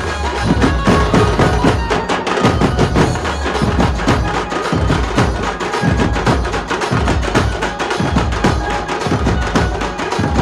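Dhumal band playing a Bollywood tune: loud, fast, dense drum and percussion strokes under a held melody line.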